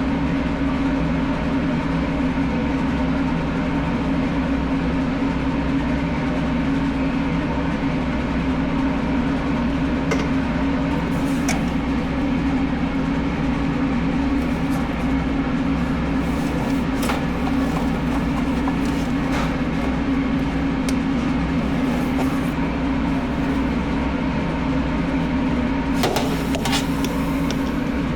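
Steady machine hum, with light clicks and knocks here and there; the loudest knock comes about two seconds before the end.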